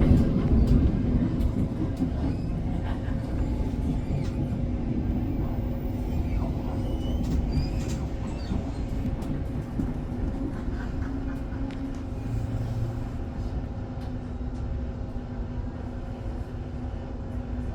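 Electric passenger train running, heard from inside the carriage: a steady rumble of wheels on the track with a steady low hum.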